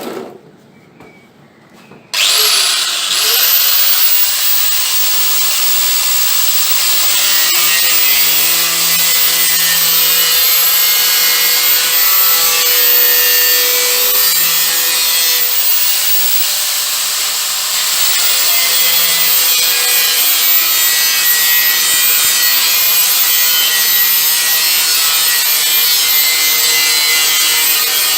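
Angle grinder with a worn, thin cutting disc, starting about two seconds in with a rising whine as it spins up, then cutting steadily along a seam in sheet metal. The cut trims a badly fitted gap between panels so it can be welded.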